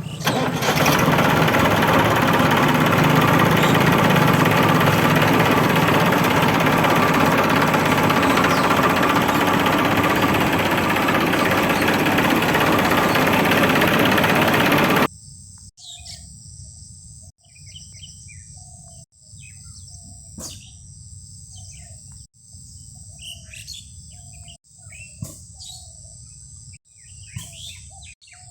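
A loud, even rushing noise that cuts off suddenly about halfway, giving way to birds chirping over a steady high-pitched insect drone.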